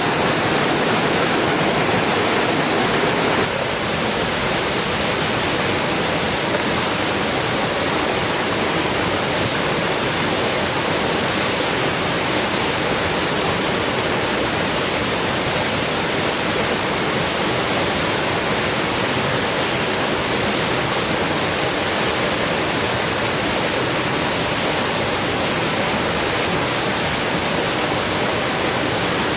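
Heavy rain falling, a dense steady hiss; its tone shifts slightly about three and a half seconds in.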